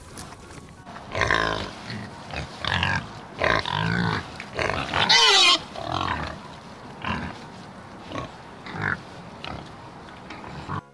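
Domestic pigs grunting and squealing in a series of separate calls, the loudest squeal about halfway through.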